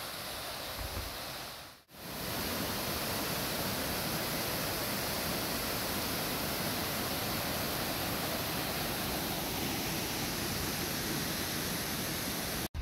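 Steady rush of a waterfall cascading over rock, a dense even hiss spread across all pitches. It drops out briefly about two seconds in and again just before the end.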